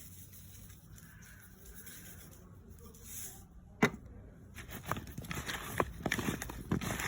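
A single sharp knock about four seconds in, then a run of irregular clicks and knocks that grows busier toward the end.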